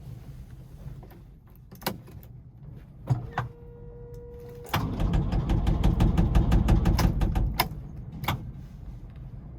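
Nissan ED30 diesel engine being cranked over by its starter: a few clicks and a short steady electric hum, then about three seconds of loud, rapid, evenly paced chugging that stops abruptly, with another click after it.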